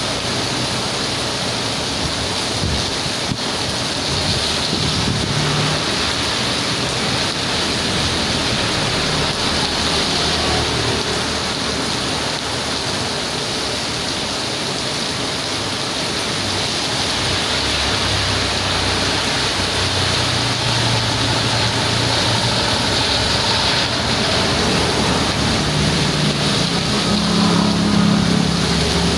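Heavy rain pouring steadily, a dense even hiss, with a low rumble coming and going beneath it.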